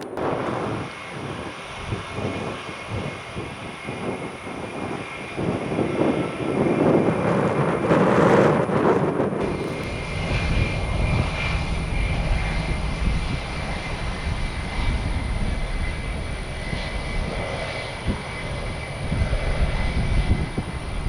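Jet airliner engines running, the roar building to its loudest about eight seconds in, then settling into a heavy low rumble with a faint steady high whine.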